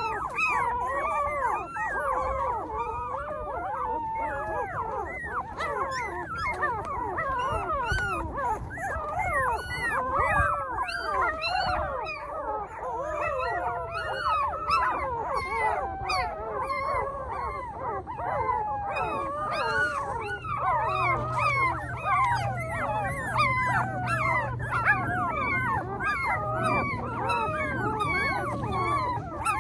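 A litter of puppies whining and yelping without a break, many small voices overlapping. A low steady hum joins about two-thirds of the way through.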